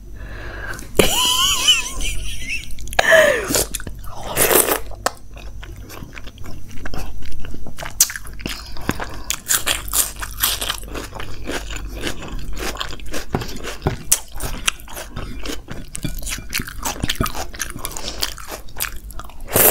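Close-miked mouth sounds of a person chewing a mouthful of veg dum biryani eaten by hand: wet chewing, lip smacks and many small clicks. A short wavering hum comes about a second in.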